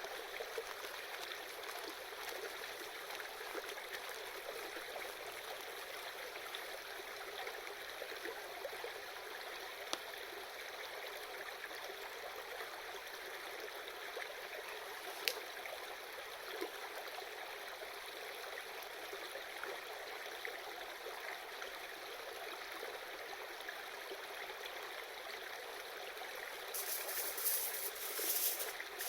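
A shallow river babbling and trickling steadily, with two single sharp clicks and a short burst of louder, hissy noise near the end.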